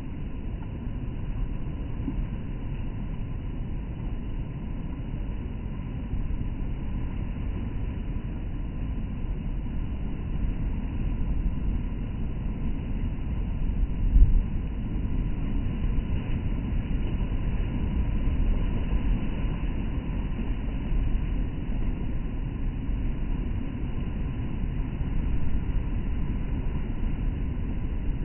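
Stormy sea surf breaking on the shore, heard as a steady low rumble of crashing water, with one louder crash about halfway through.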